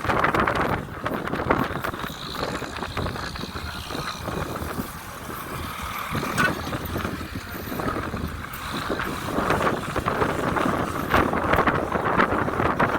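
Wind buffeting the microphone over the steady noise of a moving vehicle. It eases off a little midway and picks up again toward the end.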